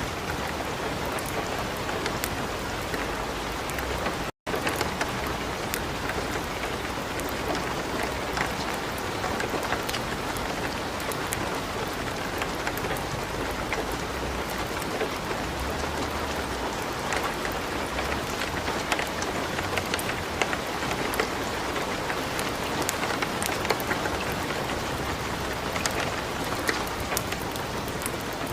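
Light rain pattering steadily, mixed with a wood fire crackling in a fireplace: an even hiss scattered with many small sharp crackles. The sound cuts out completely for an instant about four seconds in.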